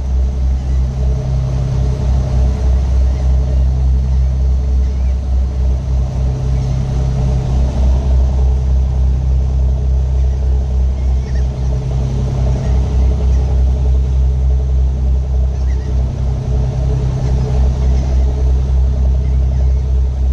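Strong wind buffeting the microphone: a loud, continuous low rumble that swells and dips without a break.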